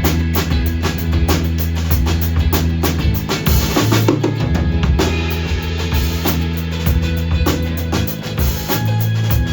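Live band playing an instrumental passage: a drum kit driving a steady beat of kick and snare, with cymbals, over sustained low bass notes.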